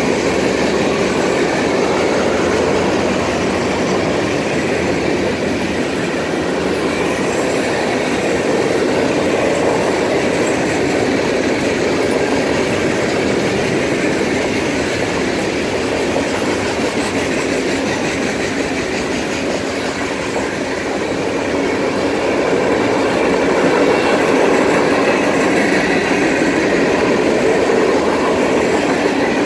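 Freight cars of a mixed freight train rolling past: a steady, continuous rumble of steel wheels on rail.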